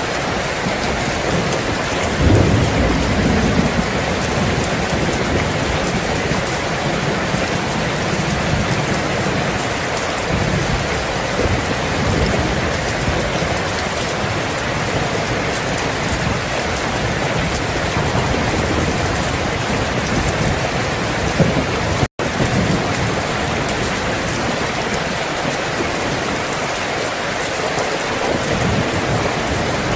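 Steady heavy rainfall, with low rolling thunder that swells a couple of seconds in and rumbles again faintly later. The sound cuts out for a moment about two-thirds of the way through.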